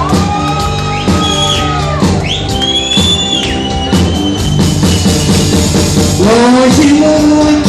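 Live rock band playing an instrumental passage before the vocals, a drum kit keeping the beat under sliding, bent lead notes.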